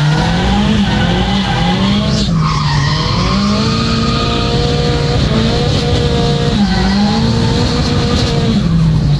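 Drift-built Nissan Silvia S14's turbocharged SR20DET four-cylinder engine revving hard with the revs rising and falling repeatedly, over tyres skidding and squealing through a drift. The revs drop back and hold steadier near the end.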